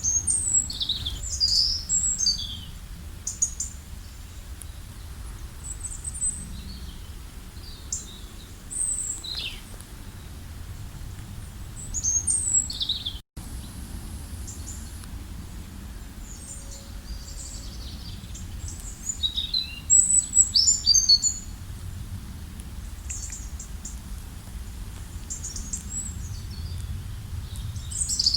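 Songbirds singing and chirping in short, high, quickly falling phrases, busiest about a second in, near twelve seconds and around twenty seconds, over a steady low rumble of background noise. The sound cuts out for an instant about thirteen seconds in.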